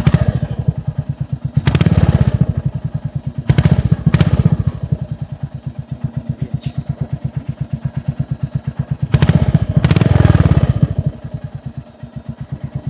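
Royal Enfield Hunter 350's single-cylinder engine idling through an aftermarket exhaust with an even, quick thump, revved briefly four times: right at the start, about two seconds in, about four seconds in, and a longer rev around nine to ten seconds in.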